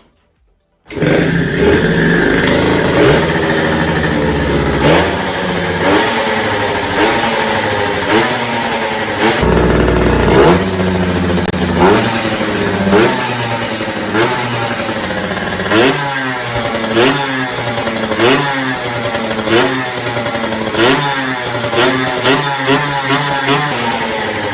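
Suzuki RG50 Gamma's 50 cc two-stroke single-cylinder engine starting about a second in and running, blipped up and down in short revs roughly once a second.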